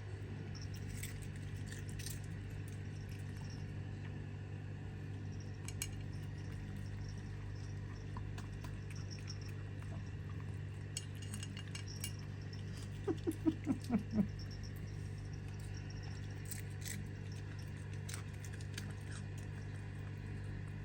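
Dog eating from a plate, with scattered faint clinks of the dish and chewing clicks over a steady low hum. About two-thirds of the way in comes a quick run of about six short pitched sounds.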